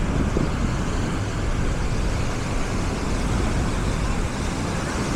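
Busy beach ambience: a steady low rumbling noise of wind and surf, with faint voices of people on the beach.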